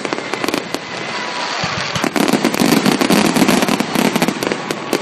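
Aerial fireworks display: many shells bursting in a dense run of sharp pops and crackles, which thickens and grows louder about two seconds in.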